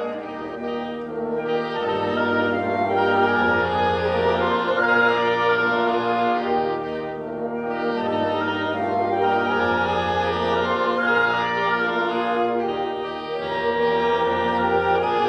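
Live classical ensemble music led by French horns and other winds, playing slow sustained chords over a bass line that moves to a new note every one to two seconds.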